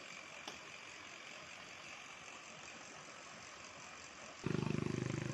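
A motor vehicle engine starts up suddenly and loud about four and a half seconds in, running with a rapid even beat, after steady background noise.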